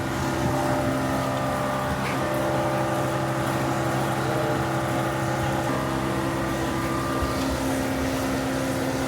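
A motor running steadily, a continuous mechanical drone with a few steady tones that shift slightly a couple of times.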